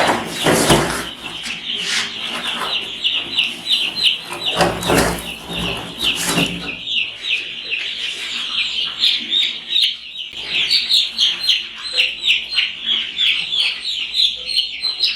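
A flock of baby chicks peeping nonstop, a dense chorus of short, high, falling cheeps. Bursts of rustling and knocking from handling or moving things come in the first half.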